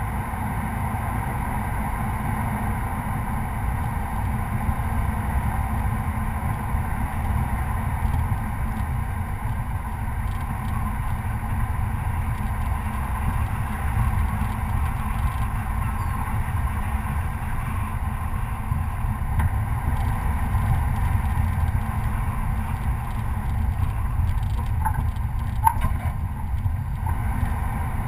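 Chevy Colorado pickup driving a rough dirt trail: a steady low rumble of engine and drivetrain, with a few sharp knocks near the end.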